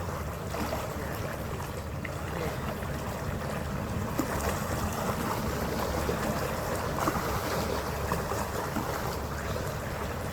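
Passenger ferry underway: a steady low engine rumble with water rushing along the hull and wind on the microphone.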